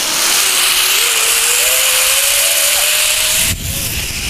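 Zipline trolley pulleys running along the steel cable: a loud hissing whir with a thin whine that rises slowly in pitch as the rider picks up speed. About three and a half seconds in the whir cuts off suddenly and a low wind rumble takes over.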